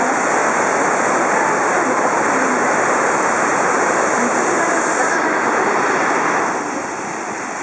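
Fukiware Falls: a waterfall's water rushing in a loud, steady wash of noise, which turns duller and a little quieter near the end.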